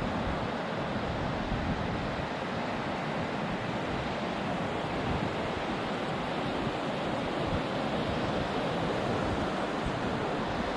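Steady rush of ocean surf breaking on a beach, with wind on the microphone.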